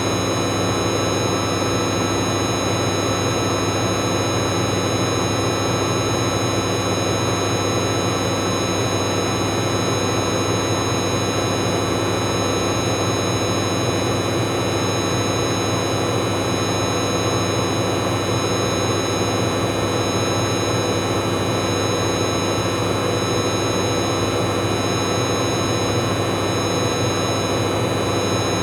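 Bauknecht Super Eco 7615 washing machine spinning towels at a steady high speed: its inverter motor gives off an annoying high-pitched whine made of several steady tones over a constant rumble and rush from the drum.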